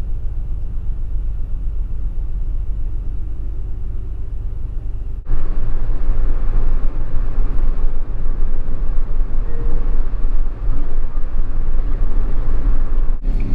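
Road and engine noise of a moving Mitsubishi Delica Mini heard from inside the cabin, a steady low rumble. About five seconds in it cuts abruptly to a louder, hissier stretch of driving noise.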